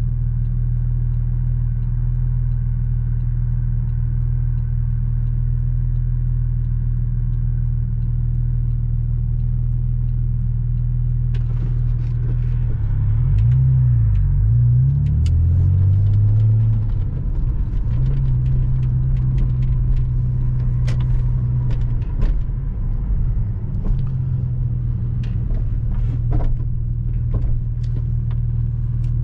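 Porsche Boxster 986's flat-six engine running as the car drives, a steady low drone. About halfway through, the engine note rises and falls for a few seconds, then settles again. Scattered sharp clicks come in over the second half.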